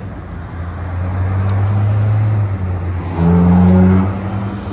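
Supercar engine and exhaust at a steady low note, then held at higher revs for under a second about three seconds in, the loudest part, before dropping back.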